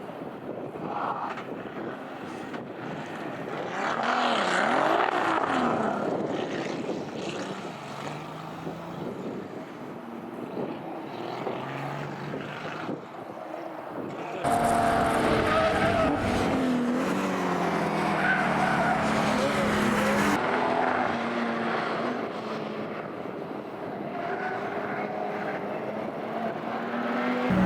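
Competition car engines revving hard and passing, pitch rising and falling with gear changes, with some tyre squeal. About halfway through the sound cuts abruptly to a louder scene of several racing cars running together.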